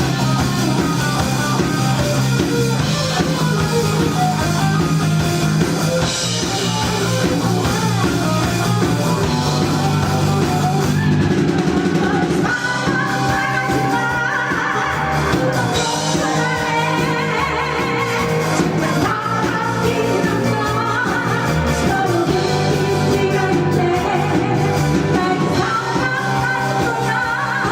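Live rock band playing a song, with drum kit, electric guitar and bass under a sung vocal line.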